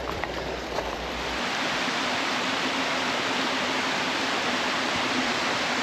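Rushing water of a rain-swollen creek: a steady, dense rush that grows louder about a second in and then holds.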